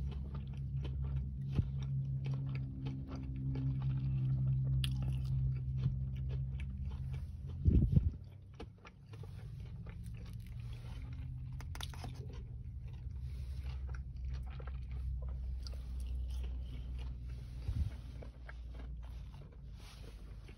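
Close-up chewing and biting of a breaded fried chicken finger, with repeated small crunches and wet mouth sounds, over a steady low hum in the car's cabin. There is a single louder thump about eight seconds in.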